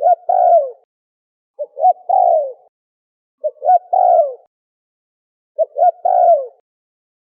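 Spotted dove (terkukur) cooing its song over and over: two short coos and then a longer, falling coo, repeated about every two seconds, four times.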